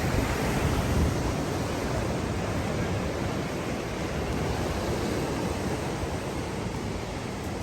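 Black Sea surf washing onto the shore: a steady rush of water noise that swells slightly about a second in, then slowly eases.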